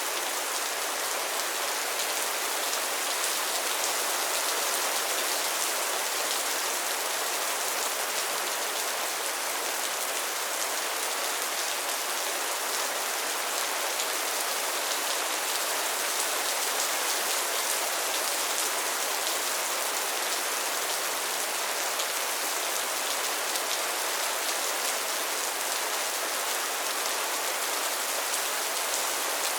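Steady rain falling on a pond and its lily pads: a dense, even patter of drops with a bright hiss and no let-up.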